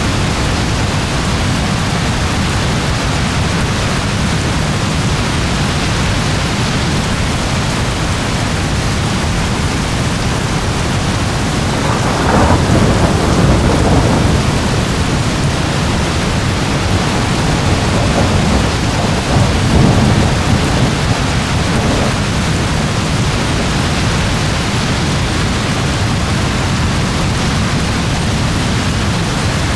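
Steady heavy rain with thunder rumbling in the distance, swelling twice, about twelve seconds in and again around twenty seconds in.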